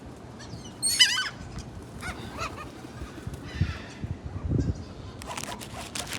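Seagulls calling: a loud run of quick squawks about a second in, then fainter calls, with a couple of low rumbles and some light clicks later on.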